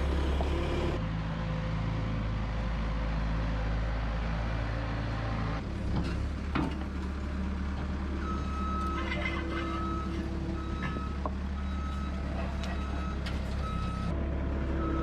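Skid steer engine running steadily under load, with a couple of sharp knocks about six seconds in. From about eight seconds in its backup alarm beeps steadily, about one and a half beeps a second, as it reverses.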